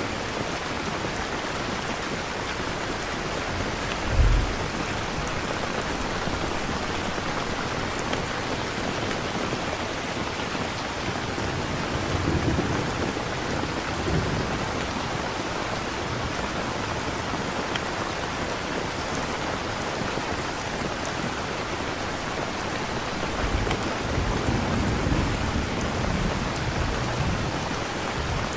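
Steady rain with low rumbles of thunder: a short low thud about four seconds in, and longer rolling rumbles around the middle and again near the end.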